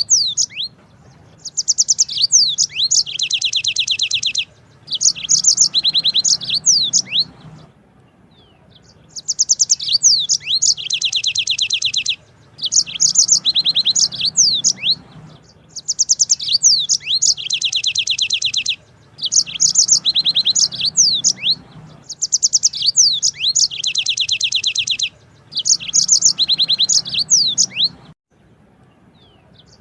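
Yellow-fronted canary (Mozambique canary) singing its long rolling song: high, fast trills and quick sweeping notes in phrases of about two to four seconds, with short pauses between.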